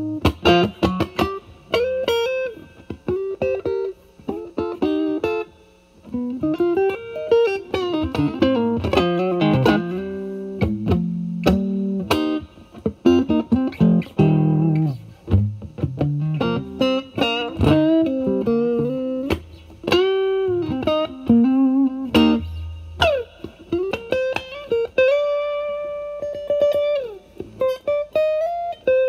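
Electric guitar (Fender Stratocaster) played through a Vertex Steel String Clean Drive MK1 overdrive pedal with its gain at maximum, into a Valvestate amp's clean channel. It plays improvised single-note lead lines with string bends, ending on a long held, bent note.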